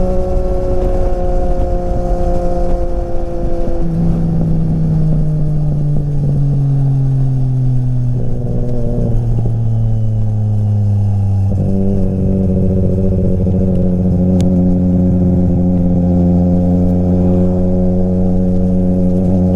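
Triumph Street Triple RS inline-triple engine through an SC Project exhaust, running under way. The revs hold steady, step at a gear change about four seconds in, then sink slowly for several seconds as the bike rolls off. They jump up again about twelve seconds in and hold steady.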